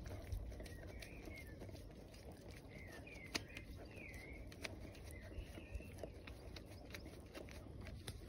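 Faint outdoor ambience: small birds chirping with short, high, swooping notes every second or so, over a low steady rumble and a few light clicks.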